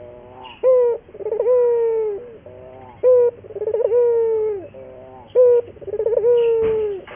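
Puter dove cooing over and over. Each phrase is a short note, then a quick stuttering run, then a long held coo that falls away at its end, about three phrases in all.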